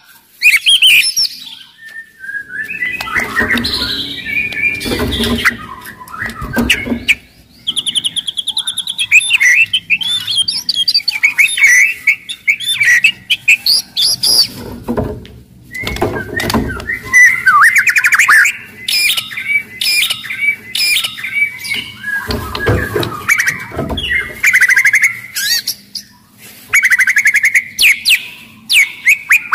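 White-rumped shama (murai batu) singing a loud, varied song: whistled phrases and glides broken by fast runs of dry clicking and rattling notes.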